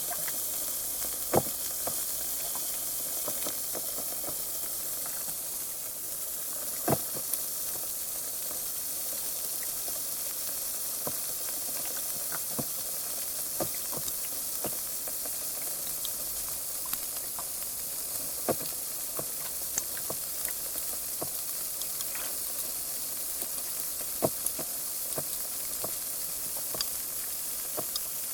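Carbonated water fizzing: a steady high hiss of rising bubbles with scattered small pops, a few of them louder, such as one about a second and a half in and one about seven seconds in.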